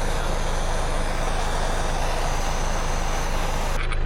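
A small handheld gas torch hissing steadily, then shut off abruptly near the end with a couple of clicks. Underneath, a tractor engine idles with a steady low hum.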